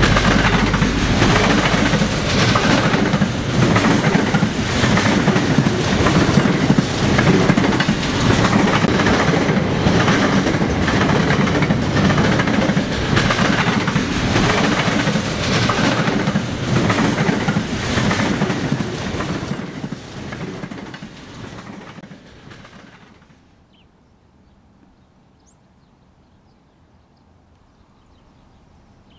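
Freight train wagons rolling past close by, their steel wheels clicking over the rail joints in a regular rhythm. The sound fades away from about 20 seconds in and is gone by about 24 seconds, leaving faint outdoor quiet.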